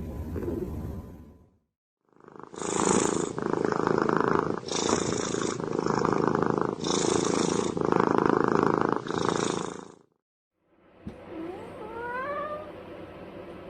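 Domestic cat purring in a rhythm of alternating breaths for about eight seconds. After a short break, a cat gives a brief rising meow.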